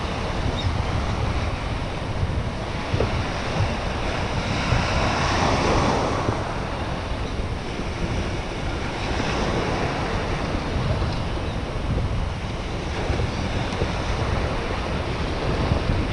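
Sea waves washing in, with a wave breaking about five seconds in and a smaller swell near ten seconds, over wind buffeting the microphone.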